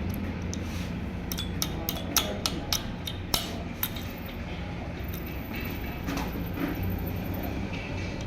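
Metal parts and tools clinking against each other, about eight sharp clicks in quick succession in the first four seconds, over a steady low hum.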